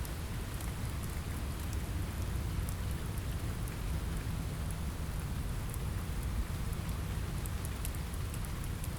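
Steady rain on a window, with a low rumble underneath and scattered sharp little ticks throughout.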